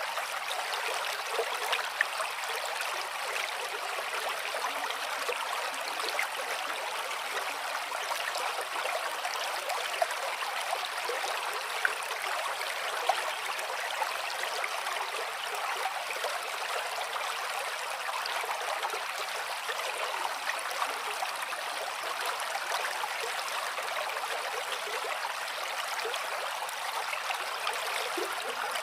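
Gently flowing water running steadily, a constant light rush with little low rumble and a few brief splashes now and then.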